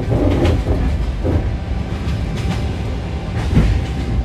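Sleeper train running, heard from inside the carriage: a steady low rumble with a few short knocks.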